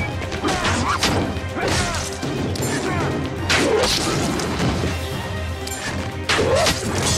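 Hand-to-hand fight sound effects, a series of sharp hits and crashes from punches and weapon strikes, over dramatic background music.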